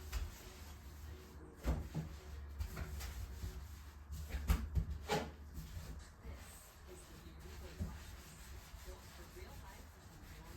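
Bathtub-cleaning handling sounds: rubbing with a few sharp knocks, the loudest around the middle, over a steady low rumble.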